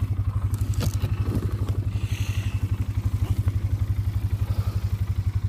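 ATV engine idling steadily with a fast, even chug, warming up after a cold start.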